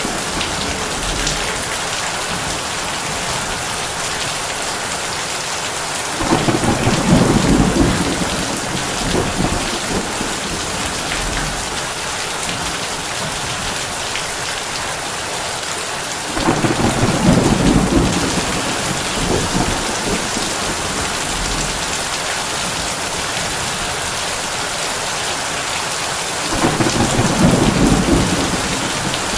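Heavy rain falling steadily on a tin roof. Three low thunder rumbles come about ten seconds apart, each lasting about two seconds.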